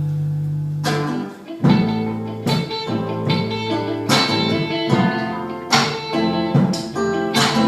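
Instrumental music led by guitar: a held chord rings out and fades over the first second and a half, then strummed chords come in with sharp, even attacks.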